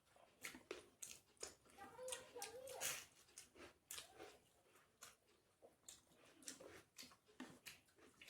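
Faint close-up eating sounds: a string of wet mouth smacks and chewing clicks. A brief faint voice comes in about two seconds in.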